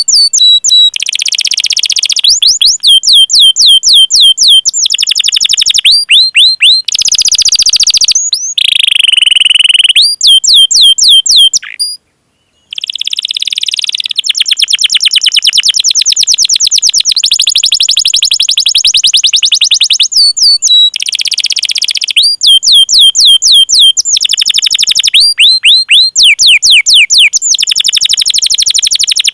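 Domestic canary singing a long rolling song: fast trills of rapidly repeated high notes, switching to a new trill type every second or two, with a brief break about twelve seconds in. This is the long-duration 'cuit cuit' and roll song used as a masteran to teach young canaries.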